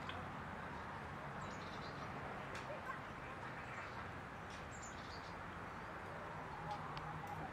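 Outdoor woodland ambience: a steady background hiss with a few short, high bird chirps scattered through it.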